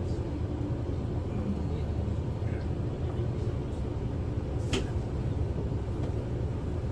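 Kyoto City bus interior: steady low engine and road rumble as the bus runs in toward a requested stop, with one brief sharp click-like sound about four and a half seconds in.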